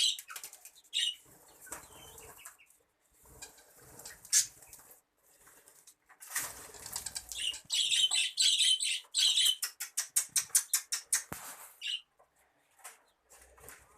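Birds flapping their wings in bursts, mixed with high chirps, with a quick run of wingbeats from about nine and a half seconds in, going quieter near the end.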